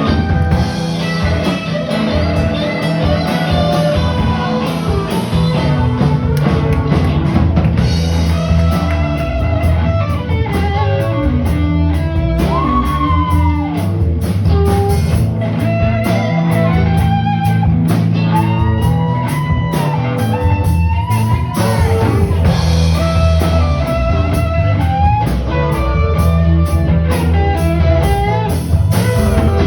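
Live rock band playing, with guitar, bass and drum kit. The lead line bends up and down in pitch.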